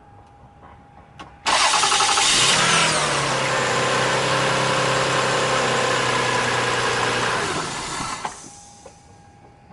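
2001 Toyota Sienna's 3.0 L V6 cranked by its new starter: a brief, quick cranking of about a second, and the engine catches at once and runs steadily. Near the end it shuts off.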